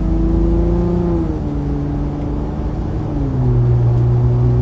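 Steady drone inside a moving car: a low hum with sustained tones that step down in pitch twice.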